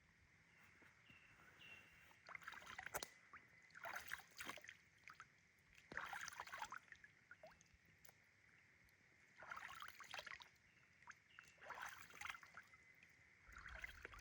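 Faint water splashing and sloshing in six separate bouts, roughly every two seconds, over a faint steady high tone.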